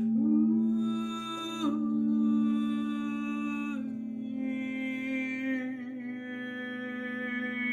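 A voice humming long held notes over a steady low drone, the notes changing pitch twice in the first four seconds, as part of a meditative sound journey.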